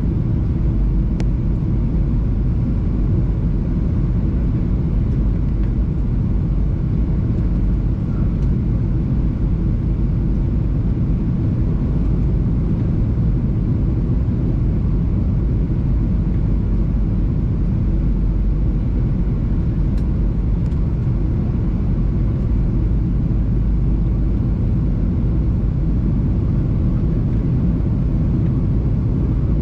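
Steady low rumble of a Boeing 737-700 airliner heard from inside the passenger cabin: engine and airflow noise holding even throughout, with no change in thrust.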